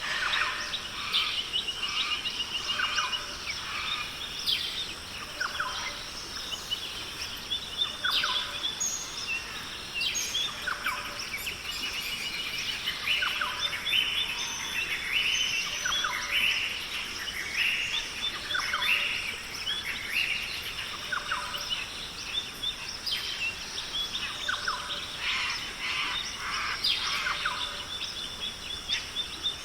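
Rainforest bird chorus: many birds calling at once, with quick chirps, sweeping whistles and short trills overlapping throughout, over a steady high hiss of insects or forest background.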